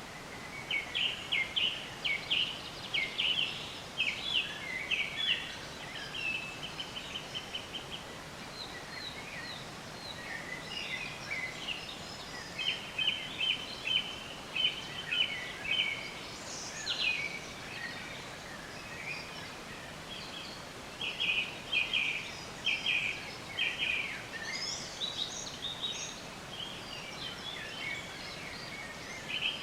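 Songbirds chirping and singing: repeated bursts of quick, high trilled notes, with other higher calls between them, over a steady background hiss.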